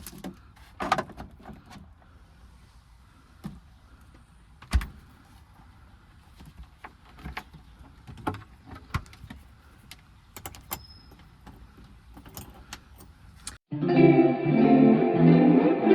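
Scattered light clicks, taps and rustles of food containers and packaging being handled. About fourteen seconds in, background music with plucked guitar starts suddenly.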